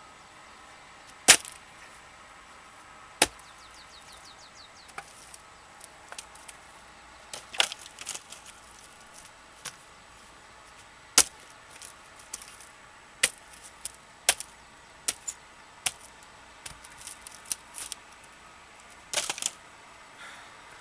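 Axe blows on firewood logs: about seven hard, sharp strikes at irregular intervals of a few seconds, with lighter knocks and clatter of wood between them.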